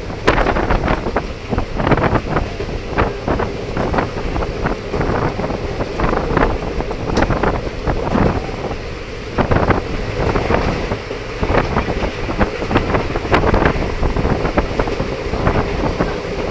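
Wind buffeting the microphone at an open window of a moving train, over the train's running rumble and frequent irregular knocks and clatter from the wheels and carriage.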